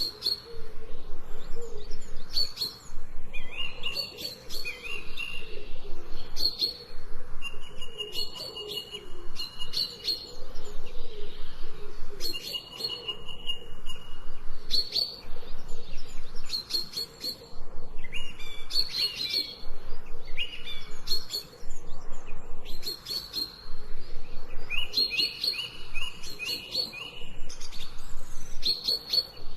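Songbirds chirping, short high calls repeated every second or two, with more than one bird calling and a fainter lower call beneath.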